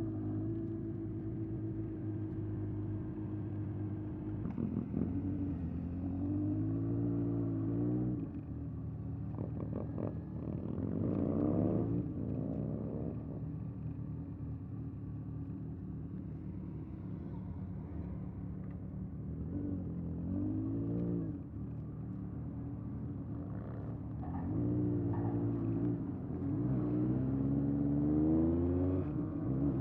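1981 Honda CB750F's air-cooled inline-four engine running through a period Yoshimura exhaust, heard from the moving bike. The engine note climbs in pitch under throttle and drops back several times.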